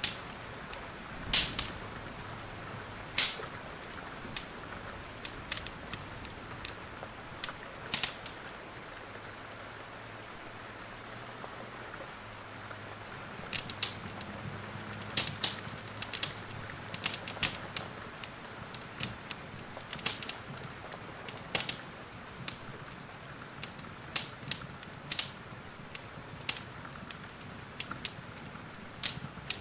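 Steady rain falling, with a wood fire crackling and giving off sharp, irregular pops over it.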